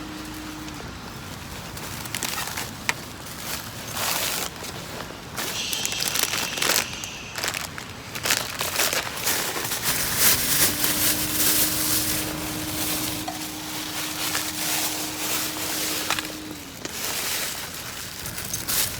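Tinder and kindling crackling and crunching as a wood fire is lit in a small solo fire box, with irregular snaps throughout. A faint steady hum comes in about ten seconds in and stops a few seconds before the end.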